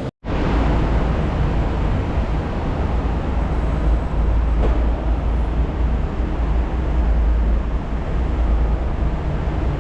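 Steady, loud road and engine noise of a moving vehicle, heaviest in the low end, after a brief cut to silence right at the start.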